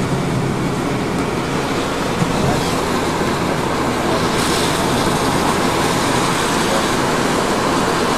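Road noise inside a moving car: a steady rumble of engine and tyres, with a hiss that grows louder about four seconds in.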